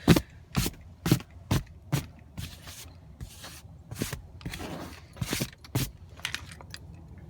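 Snow being cleared from a car in a run of scraping strokes, about two a second, some louder than others.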